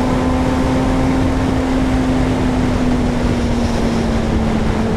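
Suzuki GSR 600's inline-four engine running at a steady pace while riding, its note sagging slightly near the end, over steady wind noise.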